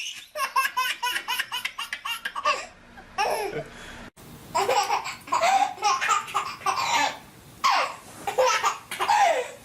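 Young child laughing hard: a fast string of short laughs in the first couple of seconds, then, after a sudden break about four seconds in, several longer bursts of laughter.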